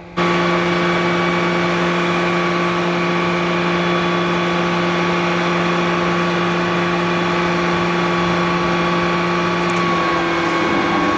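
A machine running steadily, a loud even drone of fixed tones over a hiss. About ten seconds in, its lowest tone fades and the pitch shifts slightly.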